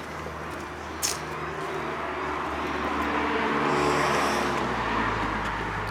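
A car passing by, its engine and tyre noise growing louder to a peak about four seconds in and then easing off. A single sharp click about a second in.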